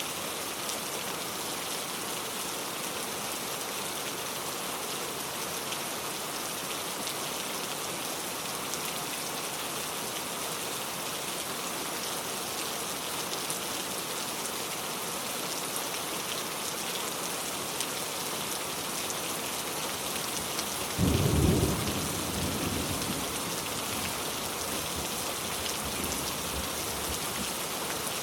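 Steady rain falling in a forest, with a clap of thunder about three quarters of the way through that rumbles away over a few seconds.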